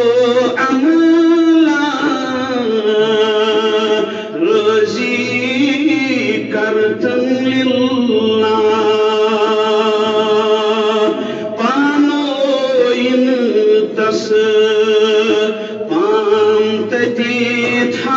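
A man singing a naat, an Islamic devotional poem, in long drawn-out melodic phrases with wavering held notes, broken by short pauses about every four to seven seconds.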